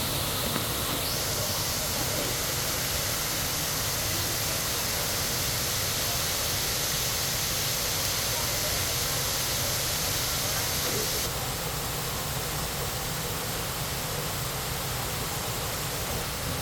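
Waterfall: a steady rush of falling water, with the hiss growing brighter about a second in and easing off a little after about eleven seconds.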